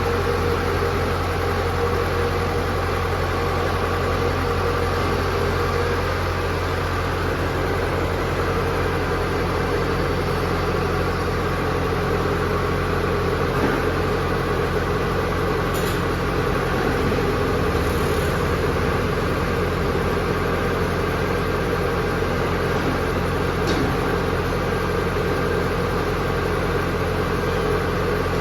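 Low, steady hum of a 50-ton H-type mechanical power press running, its electric motor and flywheel turning, with a few faint clicks.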